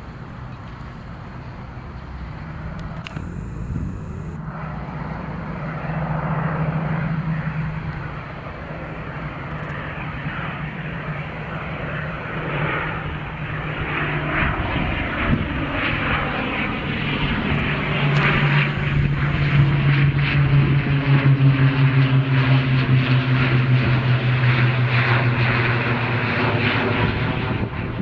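Military aircraft's engines passing close by with a steady low drone, growing louder to a peak about two-thirds of the way through and easing slightly near the end.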